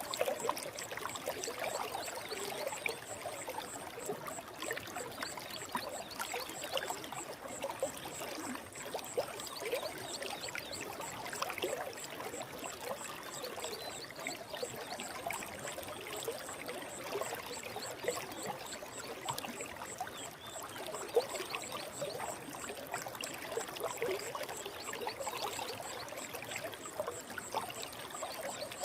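Forest stream flowing, a steady babble of trickling water.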